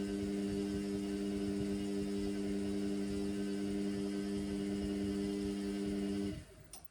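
Indesit washing machine humming steadily with a one-note electrical drone; the hum cuts off suddenly about six seconds in, and a short click follows just after.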